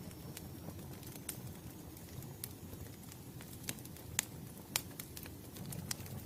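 Wood fire crackling: scattered sharp pops and snaps over a steady low rumble of burning logs, the loudest pop a little past the middle.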